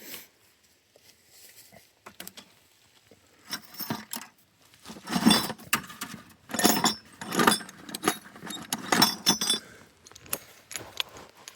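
Small metal parts jangling and clinking in a series of loud bursts over several seconds.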